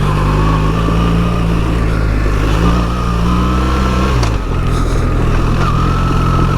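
BMW R 1300 GS's 1300 cc boxer twin running under way on a stony trail, a steady engine note that drops about four seconds in as the throttle eases or a gear is changed, then holds again.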